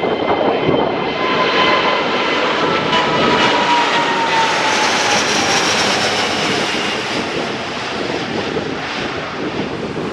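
Airbus A330-941 (A330neo) jet airliner's Rolls-Royce Trent 7000 turbofans at takeoff power, passing by loudly. A steady engine noise carries whining tones that slowly drop in pitch as the aircraft goes past.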